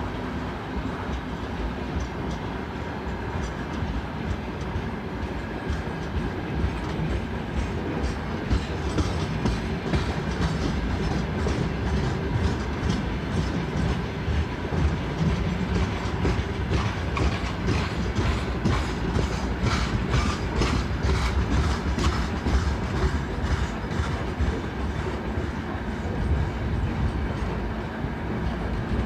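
Freight train wagons rolling past, with a steady rumble and the regular clickety-clack of wheelsets over rail joints, densest about halfway through.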